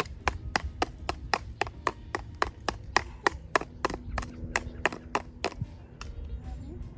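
A steady run of sharp taps or knocks, about four a second, stopping about a second before the end.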